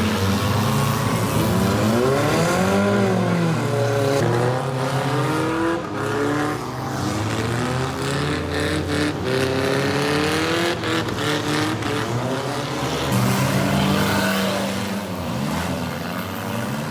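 Car engines at a figure-8 demolition derby, revving up and down again and again, with scattered knocks and bangs.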